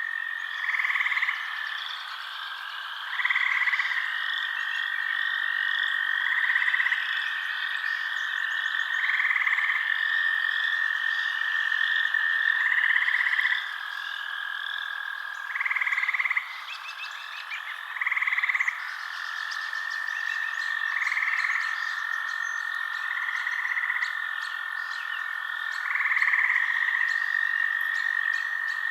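Night chorus of frogs and insects: a steady high trill runs on underneath while louder calls of about three-quarters of a second repeat every two to three seconds, over a faster pulsing chirr higher up.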